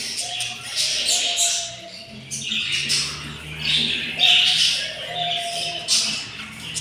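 Budgies chattering and squawking in a continuous run of harsh, scratchy calls.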